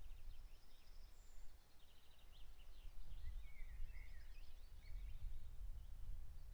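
Several songbirds singing in short chirps and quick trills over a steady low rumble.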